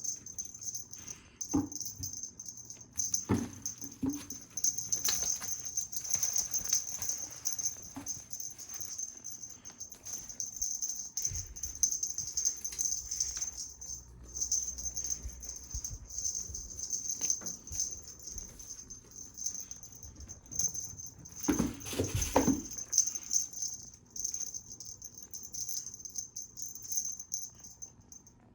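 A cat toy rattling continuously as it is shaken and dragged about during play, stopping just before the end. Soft thumps and knocks are scattered through it, the loudest a cluster about three quarters of the way through.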